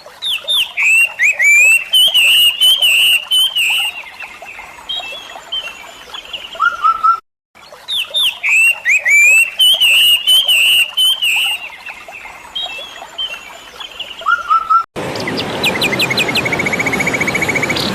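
A songbird singing a run of quick, sweeping whistled chirps. The same phrase sequence plays twice, with a brief silent break between. Near the end it cuts to a steady hiss with a fast, even trill over it.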